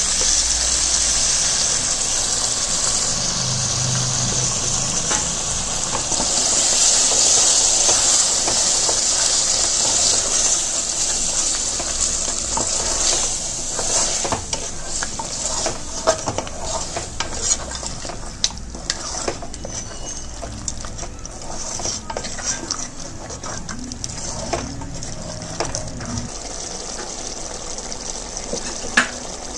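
Chicken pieces in masala sizzling steadily in an aluminium pressure cooker. From about halfway through, a wooden spatula stirs the pieces and knocks against the pot in a string of sharp clicks while the sizzle dies down.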